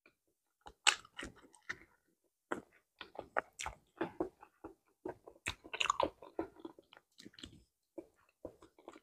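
Close-miked chewing of a mouthful of ripe banana: soft, wet mouth clicks and smacks in quick, irregular succession, starting about a second in.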